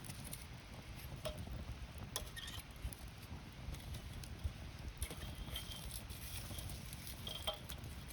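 Wood campfire burning, with a low steady rumble and irregular sharp crackles and pops from the burning wood.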